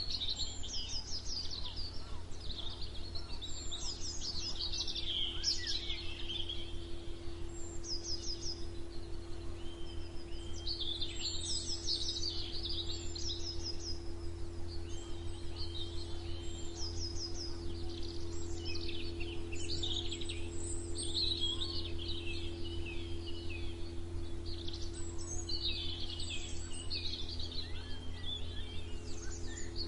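Several songbirds singing at once in a morning chorus: overlapping high chirps, warbles and fast repeated trills, over a steady low hum.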